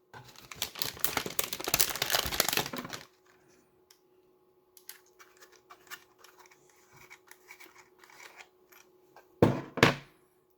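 Handling noises from parts being pulled off a small transceiver: about three seconds of dense scraping and rustling, then faint scattered clicks, and one short sharp scrape near the end.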